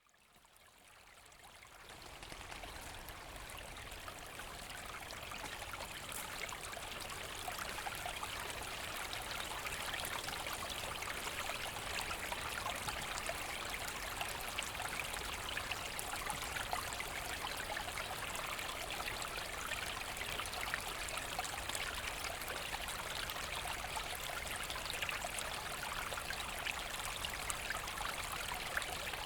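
Forest brook flowing steadily, an even rushing with many small splashes and trickles, fading in over the first few seconds.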